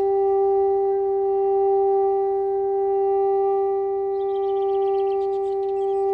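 Conch shell blown as a horn, holding one long, steady note without a break.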